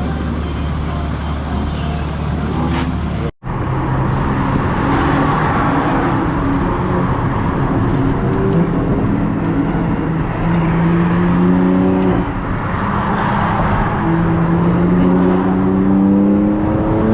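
Car engine under acceleration, its note rising in pitch and dropping back at each gear change several times, after a steady drone in the first few seconds.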